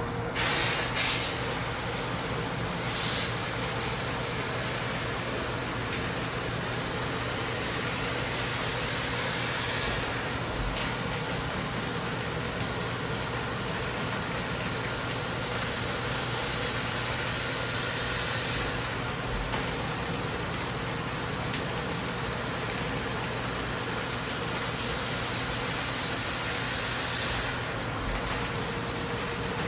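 CNC lathe running a thread-cutting cycle on an API tapered box thread, a steady machine hum under a coolant hiss that swells about every eight seconds as the tool makes repeated threading passes.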